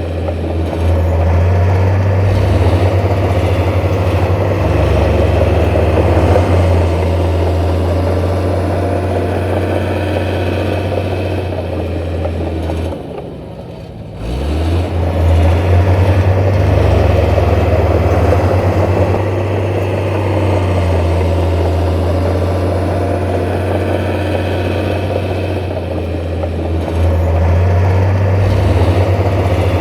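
Heavy diesel engine of construction machinery running under load. It drops away briefly about 13 seconds in, then revs back up and runs on.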